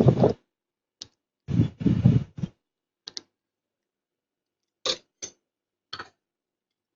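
A handful of short, sharp clicks a second or so apart, small tools tapping during circuit-board repair work, with a brief voice-like sound about two seconds in.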